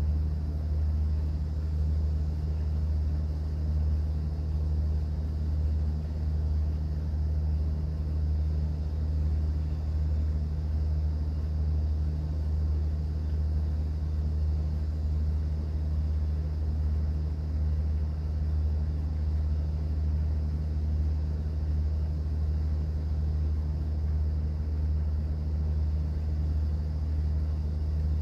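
Cruise boat's engine running steadily underway, an even low drone that doesn't change.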